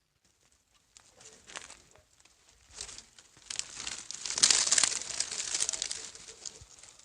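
Crinkling and rustling of handled material, a dense crackle that builds to its loudest around the middle and then eases.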